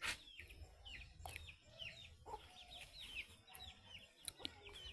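Chickens clucking faintly, with a quick run of short high chirps and a few lower clucks.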